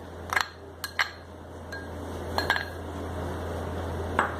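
A spoon clinking against a bowl about six times at irregular intervals as shredded cabbage is added, over a steady low hum.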